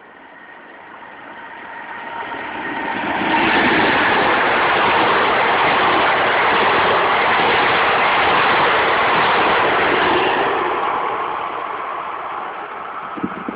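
SNCF train passing close by on the line: its running noise grows over about three seconds, stays loud for about seven, then dies away as it moves off.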